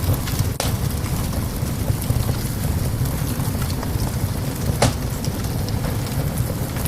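Wood fire crackling in a small stove, with scattered sharp snaps and two louder pops, one about half a second in and one near five seconds, over a steady low rumble.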